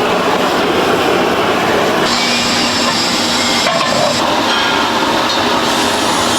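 Steady loud factory machinery noise, with a higher hiss and a low steady hum joining about two seconds in.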